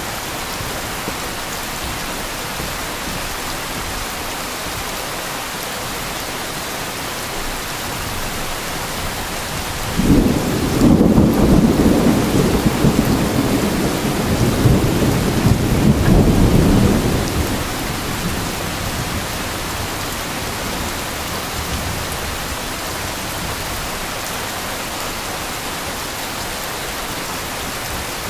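Heavy rain falling steadily, with a roll of thunder that breaks in suddenly about ten seconds in, rumbles low for about seven seconds, then fades back to the rain.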